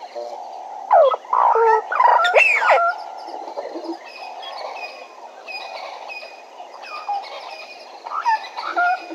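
Bird calls: loud, harsh notes with quick pitch glides, in a burst about a second in and again near the end, over a steady background chorus.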